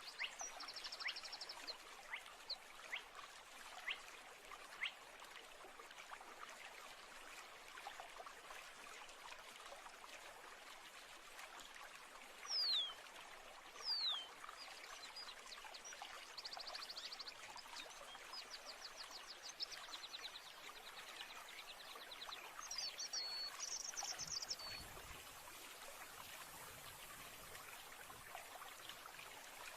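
Natural ambience: a small stream trickling steadily while birds call, with several high trilled songs and two sharp downward-sliding whistles about thirteen and fourteen seconds in, the loudest sounds.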